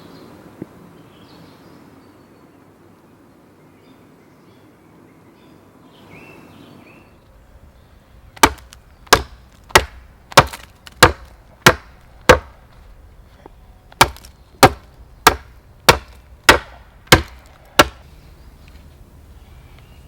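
Wood being chopped: two runs of seven sharp blows, about one and a half a second, with a short pause between them, after several seconds of faint rustling.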